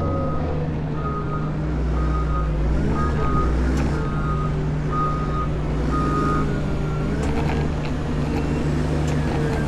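Caterpillar 140M motor grader's diesel engine running steadily, with its reversing alarm beeping about once a second as it backs up; the beeping stops about two-thirds of the way through.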